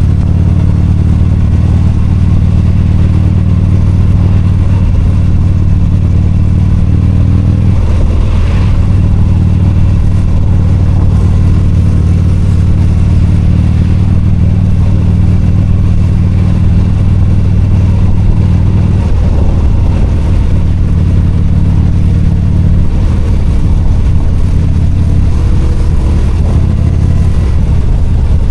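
V-twin motorcycle engine running steadily while riding. Its note shifts about eight seconds in and again around nineteen seconds in.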